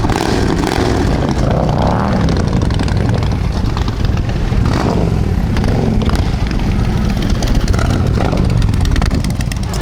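Motorcycle engine running loudly, its pitch rising and falling a few times as the revs change.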